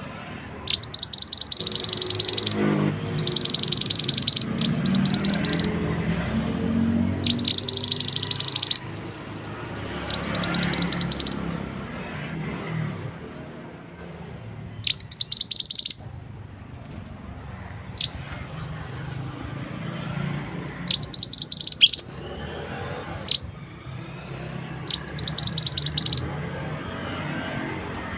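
Mantenan songbird singing a fast rolling trill, repeated in high bursts about a second long with pauses between, about eight times.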